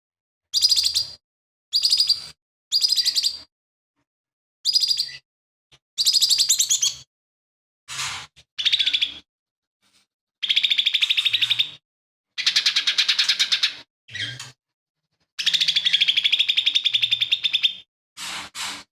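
Cucak ijo mini leafbird singing in loud bursts of rapid, chattering trills with short silences between them. The phrases are short at first and grow longer in the second half. The song is packed with mimicked calls of other birds.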